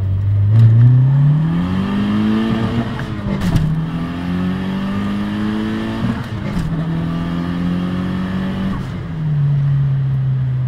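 Fiat Punto's 2.0 turbo engine, heard from inside the cabin, pulling hard under full boost on a 1.08 bar map. The revs climb, drop sharply at two upshifts about three and a half and six and a half seconds in, then ease off to a steady lower note near the end.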